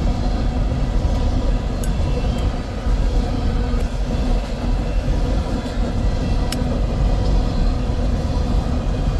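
Freight train rolling past with a steady, loud low rumble, with a few sharp clicks over it.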